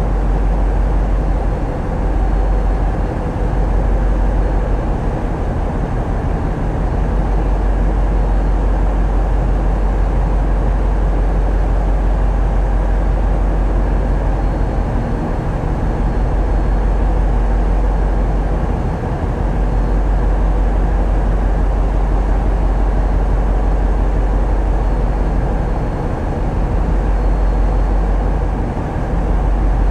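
Tugboat's diesel engines running steadily under way: a continuous heavy low rumble with machinery noise on top, easing slightly now and then.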